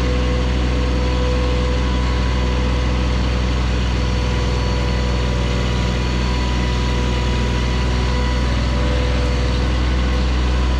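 John Deere 1023E compact tractor's three-cylinder diesel engine idling steadily.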